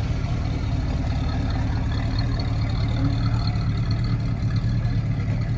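Car engine idling steadily close by.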